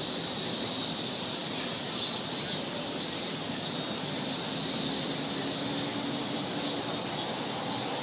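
A steady, high-pitched chorus of insects, swelling slightly about once a second.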